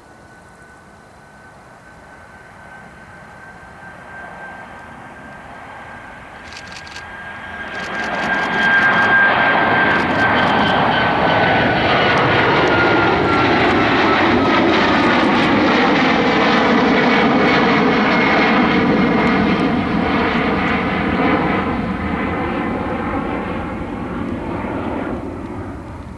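Boeing 737 MAX 9 jetliner taking off, its CFM LEAP-1B turbofans building from a distant whine to a loud rumble about eight seconds in. As it passes, a fan tone falls in pitch, and the noise then slowly fades.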